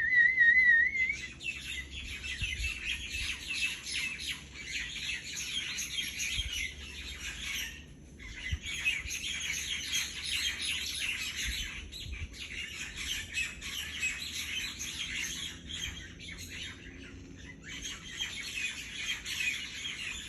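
A roost of common mynas chattering together at dusk, a dense cackling chorus that comes in waves and drops off briefly a few times. It opens with a loud warbling whistle lasting about a second, a call to draw the birds' response.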